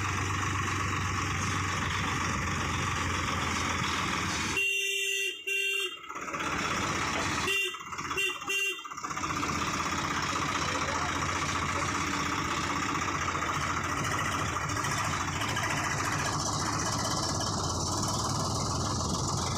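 Swaraj 855 FE tractor's three-cylinder diesel engine running steadily. About five seconds in, a horn sounds one long blast, and around eight seconds in three short toots follow.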